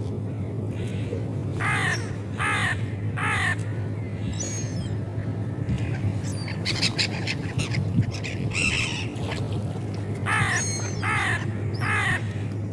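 Seagulls calling in short, downward-slurred yelps, a run of three about two seconds in and another run of three near the end, with more scattered calls between, over a steady low hum.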